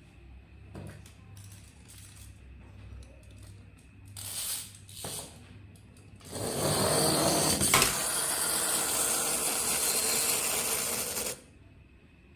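Light clicks and handling of a plastic toy, then a small mechanism runs with a steady whirring for about five seconds and cuts off suddenly.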